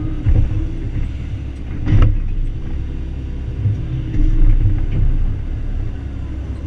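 Excavator's diesel engine running steadily, a low rumble with a sharp knock about two seconds in.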